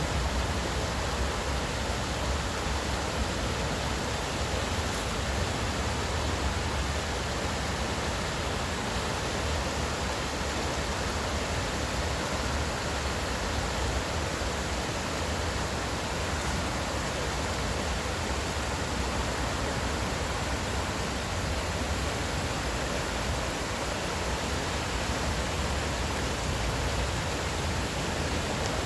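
Steady rushing of a stream's flowing water, with a constant low rumble underneath.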